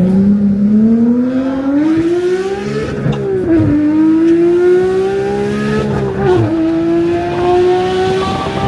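Porsche 992 GT3's naturally aspirated 4.0-litre flat-six accelerating hard. The revs climb, drop with an upshift about three seconds in, climb again, drop with a second upshift about six and a half seconds in, then climb once more.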